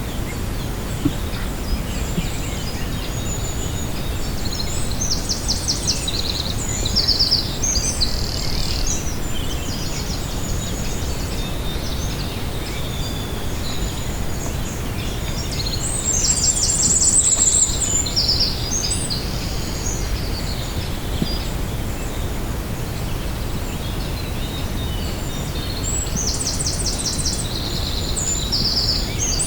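A songbird singing a high, rapid, trilled song phrase three times, about ten seconds apart, over a steady low background noise.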